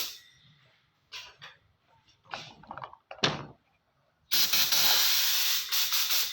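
Paint spray gun hissing in a few short bursts, then one steady pass lasting about two seconds, as paint is sprayed onto a panel for a spot repair.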